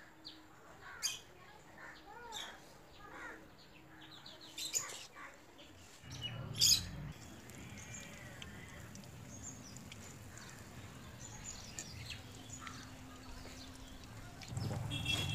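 Birds chirping in short calls while the chicken rolls are being battered; then, after a cut, a battered chicken roll frying in a wok of hot oil with a steady low sizzle, which grows louder near the end.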